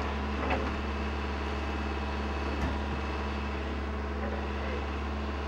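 Excavator's diesel engine running steadily, with a couple of short knocks during demolition work.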